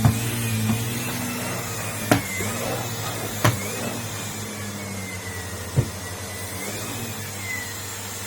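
Numatic Henry canister vacuum cleaner running steadily, its motor whine wavering up and down in pitch as it works. About four sharp knocks break over the hum.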